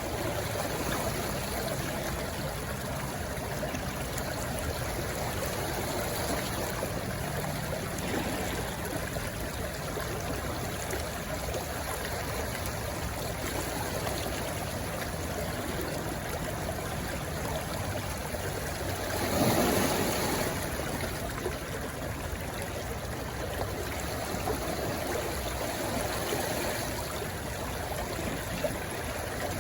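Rushing stream water flowing steadily, with one brief louder surge about two-thirds of the way through.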